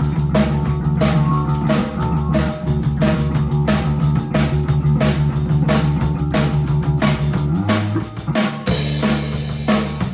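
Live rock band's drum kit and electric bass playing a steady groove during the member introductions. The drums keep up even, regular hits, and the bass holds low notes that break off for about a second near the end before coming back.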